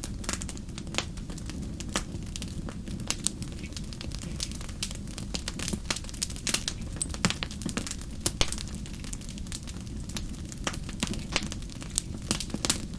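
Fire in a fireplace crackling: frequent irregular sharp pops and snaps over a steady low rumble.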